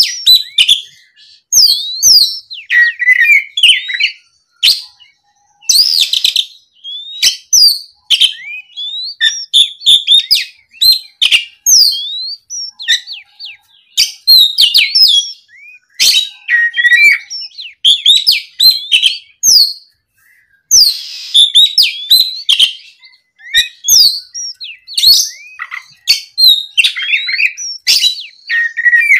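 Oriental magpie-robin singing steadily: a loud, varied song of sweeping whistles and rapid chirping phrases, broken by short pauses.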